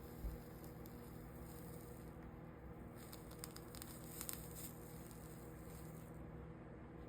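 Faint crackling sizzle of soldering flux as a soldering iron melts 60/40 solder along the copper-foiled seams of a stained-glass panel. There is a short spell with a soft thump at the start and a longer spell of fine crackles about three seconds in, over a low steady hum.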